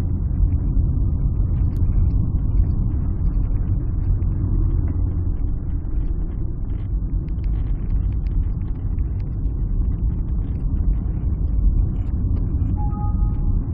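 Alfa Romeo 156 being driven: engine and road noise make a steady low rumble inside the cabin. A brief faint tone sounds near the end.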